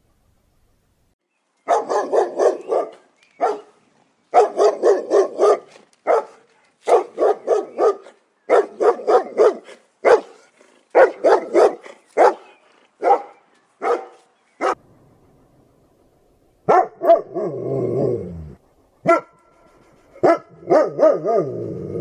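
Dog barking in quick runs of short barks, several a second. Near the end come a few longer, lower sounds that slide down in pitch.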